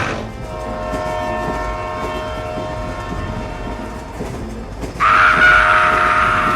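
A steady horn-like tone with several pitches held together. About five seconds in, a louder, higher horn-like tone starts sharply.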